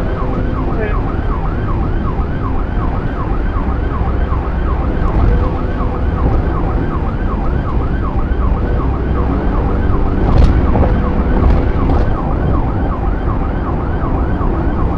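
Police car siren in a fast yelp, its pitch rising and falling about four times a second, over a steady engine and road rumble. A few short sharp clicks come about two-thirds of the way through.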